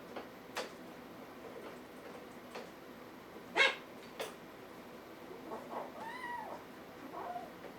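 A kitten mewing: one call that rises and falls in the second half, then a shorter one just after. Earlier come a few sharp clicks, the loudest about three and a half seconds in.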